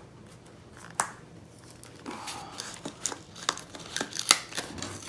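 Spyderco knife box being opened by hand: scattered clicks and rustles of the packaging, sparse at first and busier from about two seconds in, with one sharper click near the end.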